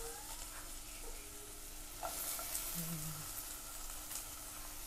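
Chopped onion and garlic sizzling gently in a little olive oil in a nonstick wok, with a steady hiss and a few faint clicks.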